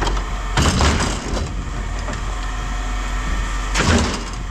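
Pieces of scrap metal being tossed down, with two sharp clattering impacts, one about half a second in and one near the end, over a steady low engine hum.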